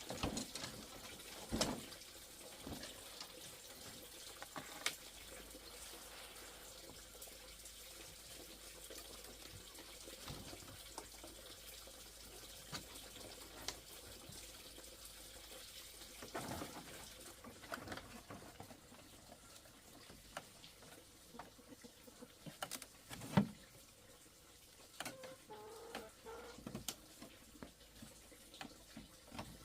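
Water running and splashing faintly, with scattered light knocks and clicks; the sharpest knock comes near the end.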